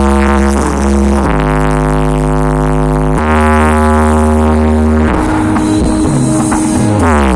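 Loud music played through the Kf Pro Audio sound system during a sound check: sustained chords with deep bass that shift every second or two, then slide down in pitch near the end.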